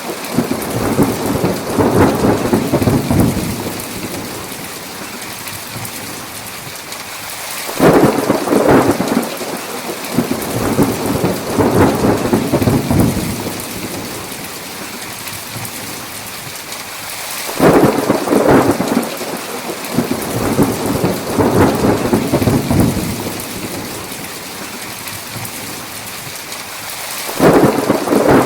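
Steady heavy rain with rolling thunder. Three thunder peals break in suddenly, about ten seconds apart, each rumbling for several seconds before fading back into the rain.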